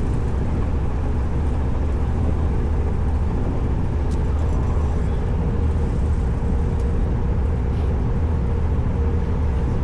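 Ferry under way: a steady low rumble of the ship's engines and the passage through the water, with no change in level.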